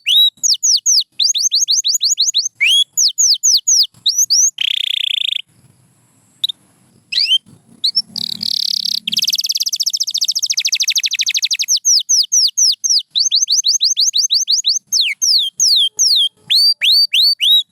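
Domestic canary singing: runs of high whistled notes that each sweep downward, repeated several times a second. A short harsh buzzy note comes about five seconds in, then a brief pause, then a very rapid trill through the middle before the sweeping notes return.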